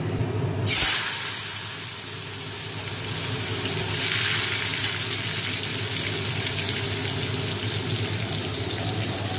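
Spiced pointed gourd (parwal) slices frying in hot oil in a steel wok, a loud steady sizzle. The sizzle starts abruptly under a second in and swells again around four seconds in.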